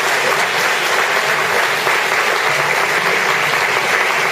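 An audience applauding steadily in a room, a dense continuous clapping.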